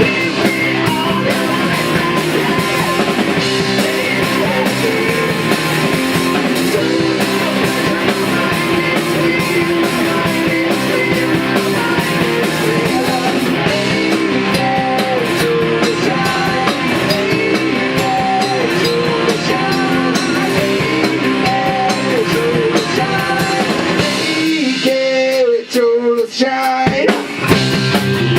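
Rock band playing live: drum kit, electric guitar and singing. Near the end the drums and low end drop out for a couple of seconds, then the full band comes back in.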